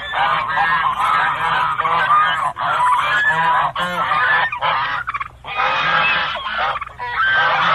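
A flock of birds honking, many loud calls overlapping, with short breaks about two and a half and five seconds in.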